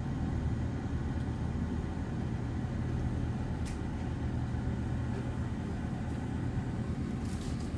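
Steady low engine rumble, an even hum with no change in pitch, with a couple of faint clicks.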